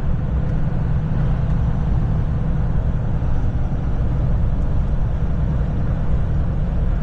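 Kenworth semi truck cruising on the highway, its engine and tyre noise making a steady, even low rumble inside the cab.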